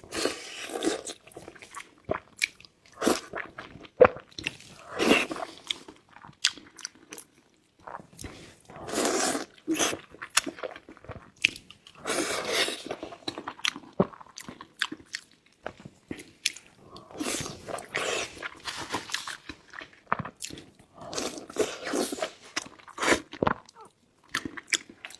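A person eating close to the microphone: irregular bites and chewing, with many sharp clicks and crunches and short louder bursts of mouth noise.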